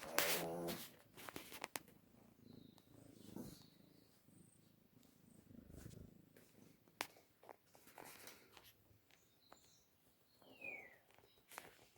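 Domestic cat purring close to the microphone in uneven spells, with a short loud cry at the very start and scattered clicks and rustles.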